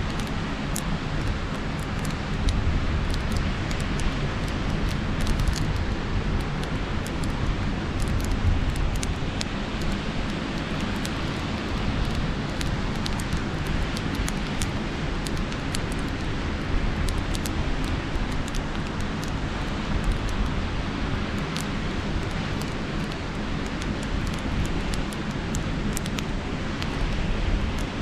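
Campfire crackling with frequent sharp pops over a steady low rumble of sea surf and wind.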